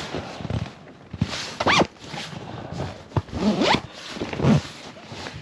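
A zipper being pulled in a few quick strokes.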